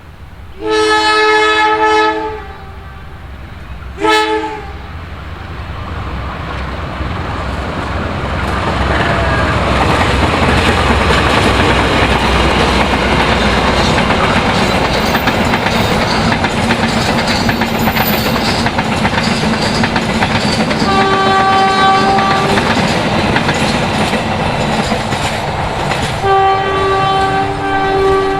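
Diesel locomotive air horn sounding a long blast, then a short one, as a train approaches; then the train passes close by, its wheels running over the rails in a loud steady rumble with clickety-clack, and the horn sounds twice more near the end. The horn blasts are the driver's warning signal, semboyan 35.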